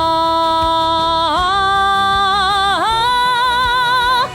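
A woman's voice holding one long sung note in a dramatic villain song, with vibrato, the pitch dipping and swelling twice, over a backing track with a steady beat.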